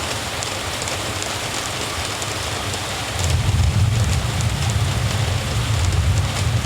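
Steady rain hissing on surfaces, with a low rumble joining about halfway through and carrying on.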